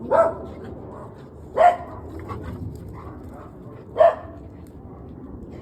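An American bully dog barking: three short, loud barks, the second about a second and a half after the first and the third about two and a half seconds later, with fainter little sounds in between.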